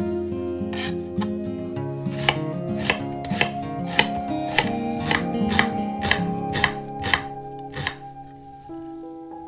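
Knife chopping food on a cutting board, about two strokes a second, stopping near the end.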